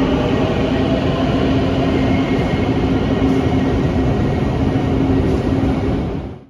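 Quito Metro train running: a steady motor hum over a dense rumble of wheels and track. It fades out quickly at the very end.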